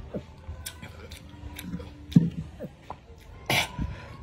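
A man chewing raw bilimbi (iba) fruit, with scattered wet mouth clicks and smacks; the sharpest smack is about two seconds in, and a short breathy noise comes about three and a half seconds in.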